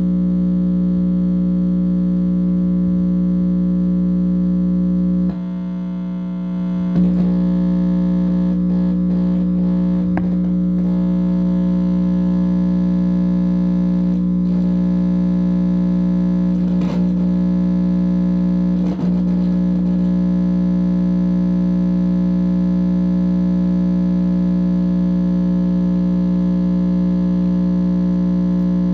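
Loud, steady, distorted electrical buzz from a guitar amplifier. It dips quieter for a couple of seconds about five seconds in, with a few faint clicks; the owner takes the buzz for a directed-energy attack being picked up.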